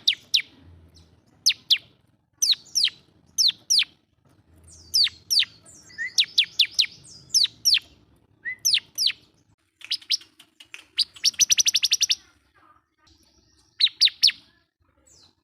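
Bar-winged prinia (ciblek) in full song, calling at a rival: sharp, high chirps that sweep steeply downward, singly and in quick pairs and runs. Past the middle there is a fast rattling trill.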